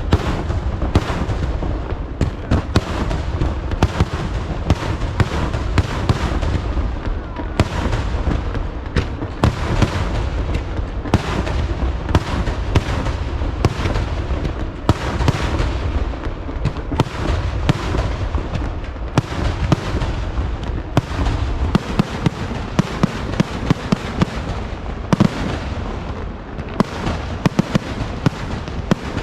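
Fireworks display: a dense, unbroken barrage of explosions, many bangs a second, with sharper loud cracks standing out from the rolling din.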